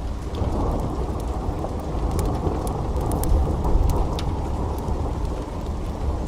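Heavy rain falling steadily, with a low thunder rumble swelling in the middle and scattered sharp ticks.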